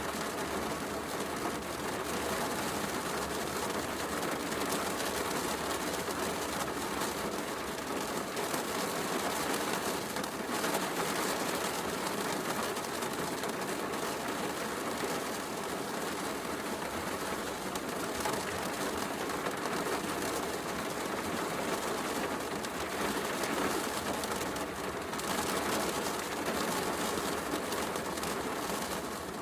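Heavy rain falling steadily, mixed with a wood fire crackling in a fireplace.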